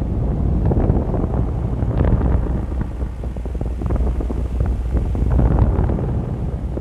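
Wind buffeting the microphone: a steady low rumble, rising and falling slightly in gusts, with crackles.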